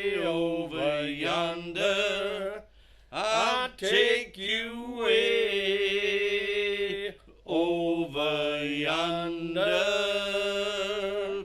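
Singing of a song's closing line, with long drawn-out held notes and a few short breaks, ending at the close.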